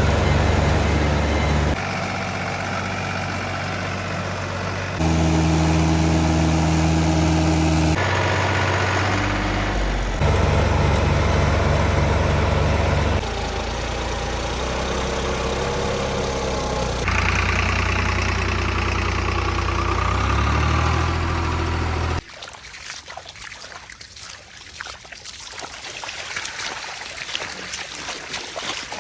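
Tractor diesel engines running, heard in a run of short clips that change abruptly every few seconds, each with its own steady low hum. About 22 seconds in, the engine hum gives way to a much quieter, rough noise.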